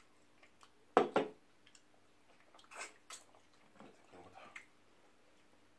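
Close-up eating sounds: wet mouth smacks and chewing of amala with ogbono soup. One sharp, loud smack comes about a second in, followed by scattered soft clicks and squelches.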